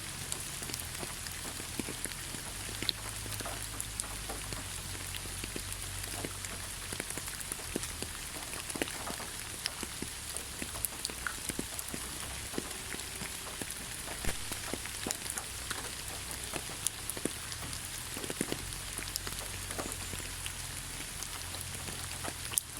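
Steady rain falling in a forest: a constant hiss of rainfall with many individual drops tapping close by at irregular moments.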